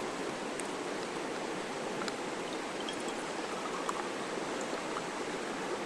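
Steady rushing of running water, even and unbroken, with a few faint ticks over it.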